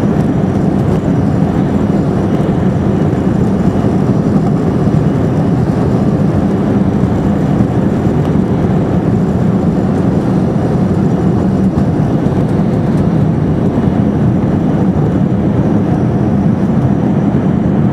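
Boeing 747 cabin noise during takeoff: a steady, loud roar of the jet engines and rushing air, heard from inside the cabin.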